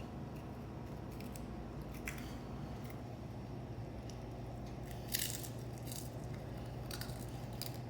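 Chewing: a few scattered crunchy clicks, the loudest about five seconds in, over a steady low hum.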